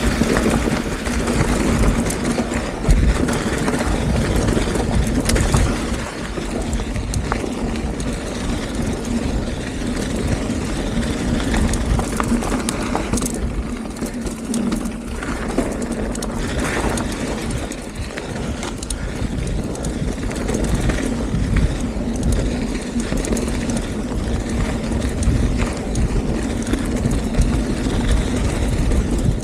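Canyon Neuron full-suspension mountain bike descending a rough dirt trail at speed: wind buffeting the camera microphone, tyres rumbling over the ground, and frequent clattering knocks from the bike over roots and rocks.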